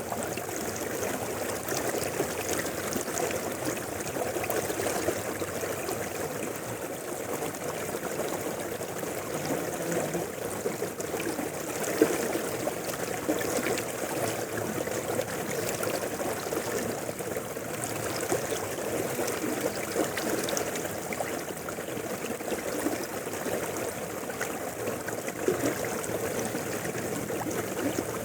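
Steady burble and rush of a shallow river flowing over rocks, with small splashes and gurgles throughout.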